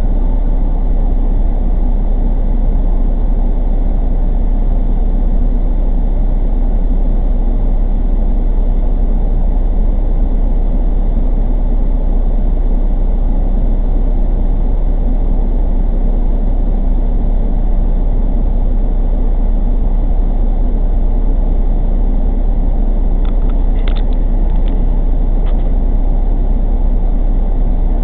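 Semi truck's engine running, a steady low drone from inside the cab with no change in pitch. A few faint clicks come near the end.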